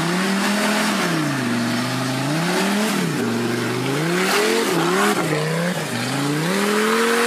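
An off-road 4x4's engine revving up and down repeatedly on a climb. The revs rise and fall about four times, with a few quick blips in the middle.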